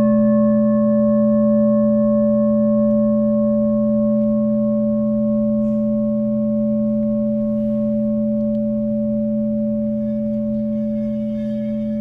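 A singing bowl rings on after a single strike, several steady tones sustaining and slowly fading. A low steady hum sits beneath it.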